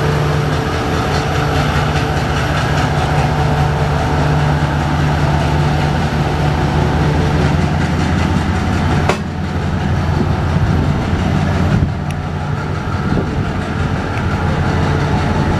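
WDM-3A diesel-electric locomotive running with a steady low engine hum as it hauls an express through, followed by its coaches rolling past on the rails.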